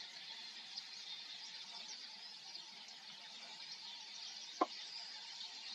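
Small birds giving many high, thin twittering calls. A single short knock sounds about four and a half seconds in.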